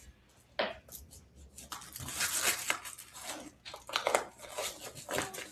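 Blood pressure cuff being wrapped around an upper arm and its Velcro pressed shut: a sharp click about half a second in, then a run of irregular scratchy, rasping noises.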